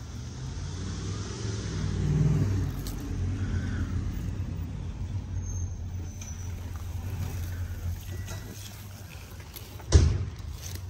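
Low, steady rumble of an idling car engine. About ten seconds in comes a single hard thump, as the phone knocks against a fleece hoodie.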